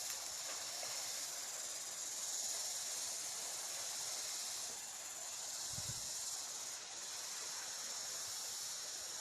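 Steady high-pitched hiss, most likely a chorus of insects such as crickets or cicadas, with a faint low thump about six seconds in.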